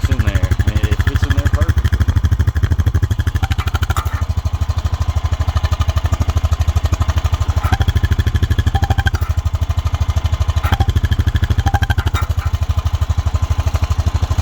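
Honda Rancher ATV's single-cylinder engine idling steadily, with an even train of exhaust pulses, its sound damped by a homemade straight steel-pipe insert ('quiet stick') threaded into the muffler.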